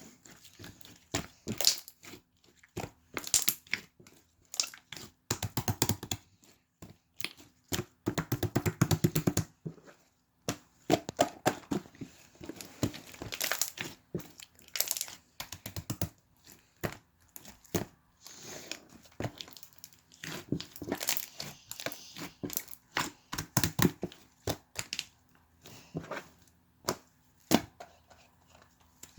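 Slime being mixed and worked by hand, giving irregular sharp sticky clicks, with denser runs about eight seconds in and again past the twenty-second mark.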